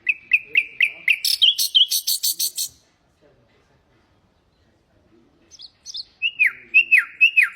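Nightingale singing in two phrases about five seconds apart. The first is a quick run of repeated whistled notes that breaks into a fast, buzzy trill. The second is a few downward-slurred whistles, and near the end it runs into another rapid trill.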